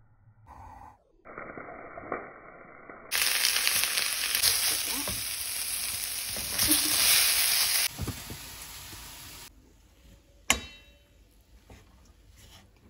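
Chopped vegetables frying in oil in a wok, sizzling in short cut-together clips. The loudest sizzle comes from about three to eight seconds in, then it drops away and a single sharp knock is heard about two seconds later.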